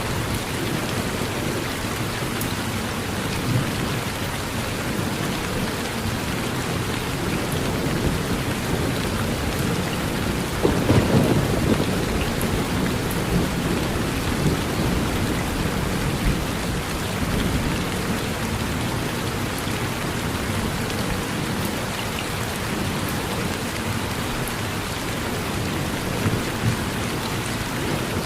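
Steady rain falling on a porch, with low rumbling thunder that swells louder about halfway through.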